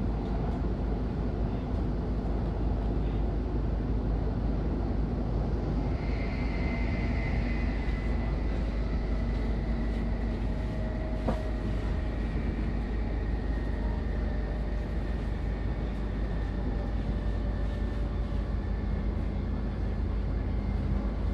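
Interior of a moving S-Bahn train heard from the passenger car: a steady running rumble. A thin high whine comes in about six seconds in and holds, sinking slightly in pitch, with one faint click partway through.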